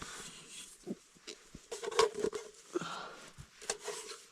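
A camp dish being washed: scratchy rubbing in short strokes, with several sharp knocks and clinks.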